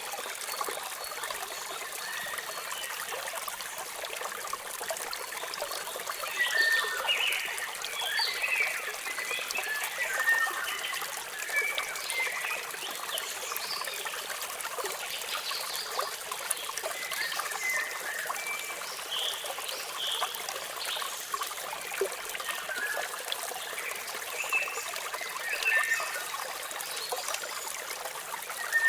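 Steady rushing trickle of a waterfall, with small birds chirping over it in scattered short bursts, busiest about a quarter of the way in and again in the last third.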